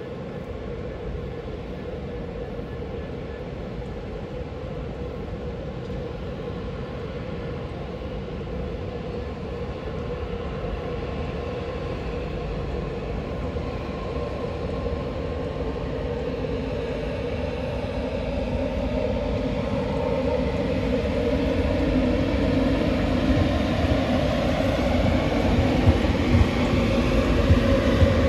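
Class 91 electric locomotive and its train approaching and drawing alongside, the running noise of the train and its wheels on the rails growing steadily louder. A few sharp knocks come near the end as it passes close by.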